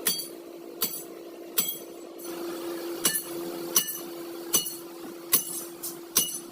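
Hammer striking metal about nine times at a steady pace of roughly one blow every three-quarters of a second, each blow ringing, over a steady hum.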